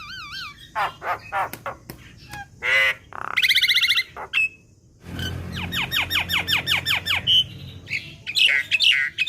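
Javan myna (jalak kebo) calling in a varied sequence: short whistled notes, a harsh buzzy squawk, a fast run of descending notes at about six a second, then sharp repeated chirps.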